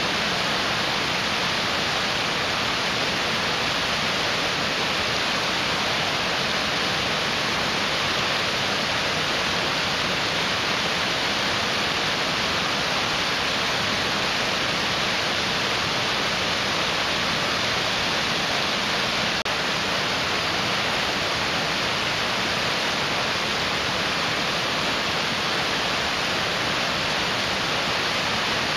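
Mountain stream rushing over rocks: a steady, even roar of water with no change in level.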